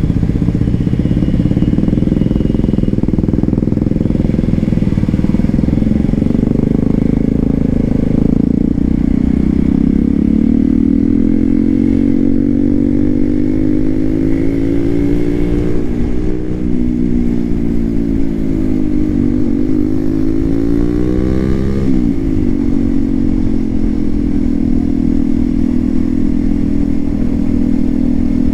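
Hero XPulse 200 4V's single-cylinder engine running through an aftermarket SC Project exhaust. The note is steady at first, drops in pitch about a third of the way in, dips and swings back up a couple of times past the middle, then settles.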